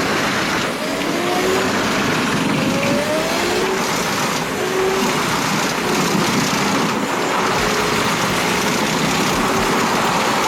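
Heavy engine-driven machinery running loudly and steadily under a dense noise, with the engine's pitch rising briefly several times in the first half.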